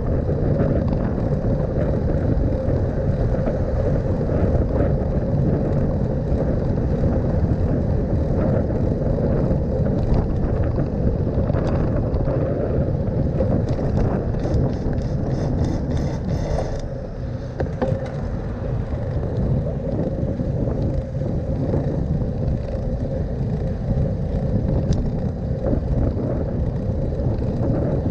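Steady rumble and wind noise from a bicycle riding through city traffic, with a few seconds of rapid clicking or rattling about halfway through.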